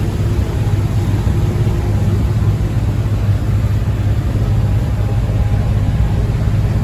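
A large engine running steadily, a continuous low drone with a hum of several steady tones and no change in pace.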